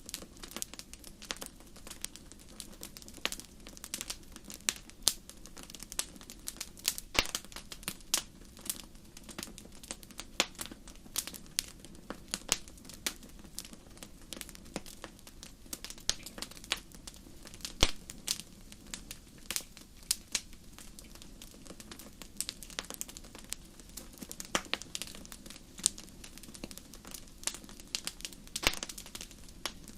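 Wood campfire crackling: irregular sharp snaps and pops, some much louder than others, over a soft steady background of the burning fire.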